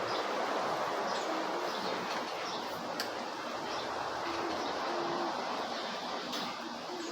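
Birds chirping in short high calls over a steady background hiss, with a single sharp click about three seconds in.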